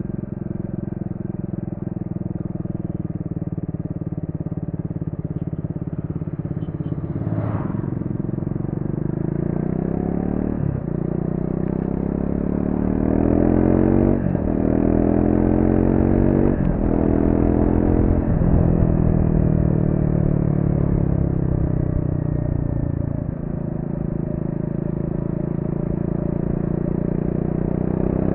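Triumph Speed 400's 398 cc single-cylinder engine through its stock exhaust, holding steady revs, then accelerating from about eight seconds in with the revs climbing and breaking off four times at quick upshifts. The revs then fall away as it slows, and the engine picks up again near the end.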